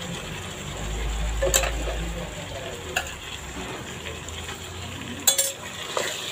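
Keema and fried onions sizzling in an aluminium kadhai while being stirred with a spatula. The spatula knocks against the pan a few times, loudest about five seconds in.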